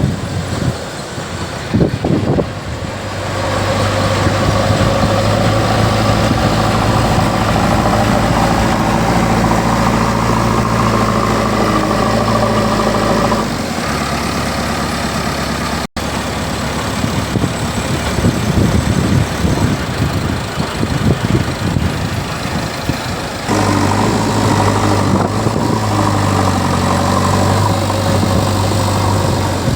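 JCB 3DX backhoe loader's diesel engine running under load, its steady note rising for stretches as the machine works, dropping back about 13 seconds in and picking up again about 23 seconds in; a brief cut in the sound comes about halfway.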